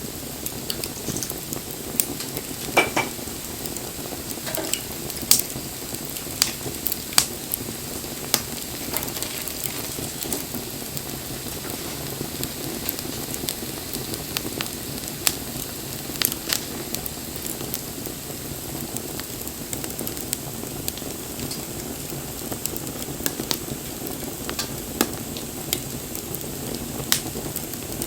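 Wood fire burning with a steady hissing crackle and scattered sharp pops at irregular intervals.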